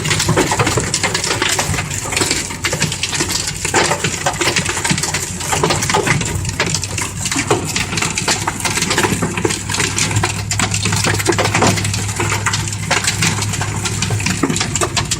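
Very heavy rain drumming on the roof and body of a Jeep, a dense, loud patter, with the vehicle's engine humming low and steady underneath.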